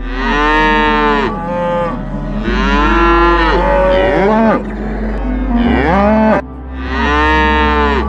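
Cow mooing: three long moos in a row, each rising and then falling in pitch.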